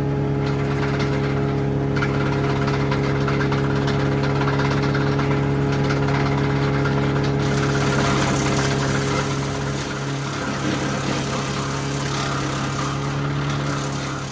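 Tractor engine running steadily, driving a PTO wood chipper. About halfway through, a rough, hissing higher noise joins the engine's hum.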